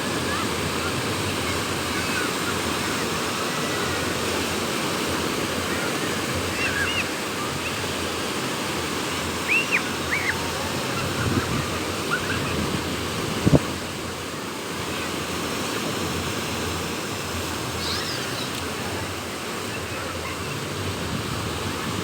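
Sea waves washing onto the shore with wind, a steady rushing noise. A few faint, short high calls come through in the middle, and a single sharp thump sounds about halfway through.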